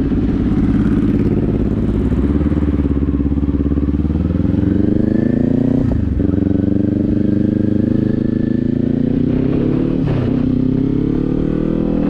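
Kawasaki Z400's parallel-twin engine pulling under acceleration, its pitch rising, with two brief dips as it shifts up a gear, about six and ten seconds in.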